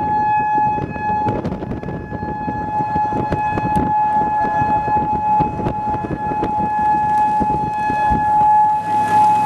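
Outdoor tornado warning siren sounding one steady high tone, heard over loud wind and rain noise with scattered clicks and knocks.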